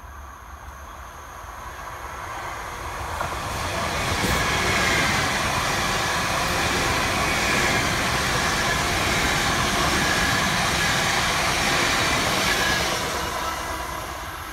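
South West Trains electric multiple-unit passenger train passing on the line. The steady rush of wheels on rail builds over about four seconds, holds level for around nine, then fades as the train goes away.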